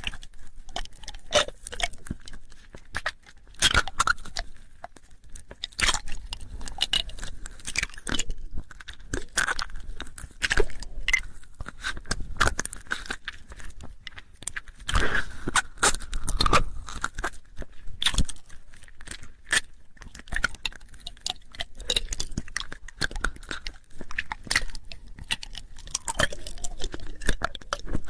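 Close-up wet ASMR mouth sounds: irregular clicks, pops and smacks of lips and tongue, right on the microphone.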